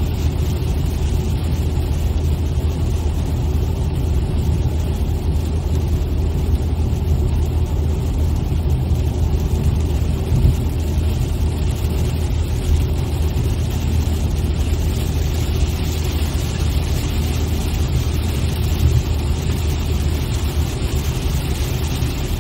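Steady road and engine noise heard inside a moving car, a constant low drone with an even hiss over it.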